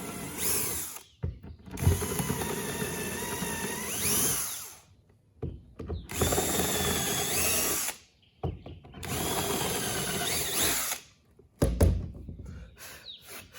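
Power drill boring shallow pilot holes into wood, run in four short bursts of one to three seconds each with pauses between, then a single knock near the end.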